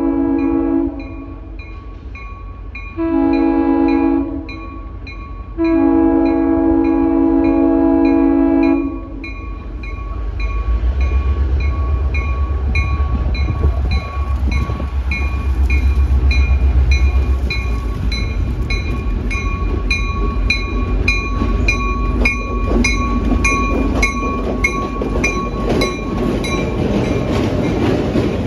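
Diesel locomotive 1751 sounding its air horn: a blast ending about a second in, a short blast, then a long one. A bell rings steadily about twice a second. The locomotive's engine rumble then swells as it draws close and passes, followed by the clatter of passenger car wheels on the rails.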